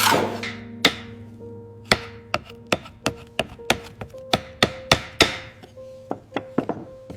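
An irregular string of about twenty sharp knocks and taps, some ringing briefly, over a faint steady low hum.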